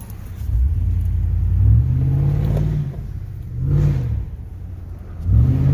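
Muffler-deleted 5.3 V8 in a Chevy/GMC Suburban or Tahoe, accelerating in three pulls: a long one of about two and a half seconds, then a short blip, then another rev near the end, the open exhaust rising and falling in pitch with each.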